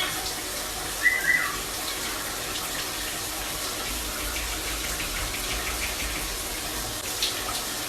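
Shower spray running steadily, with one short chirp from a ring-necked parakeet about a second in.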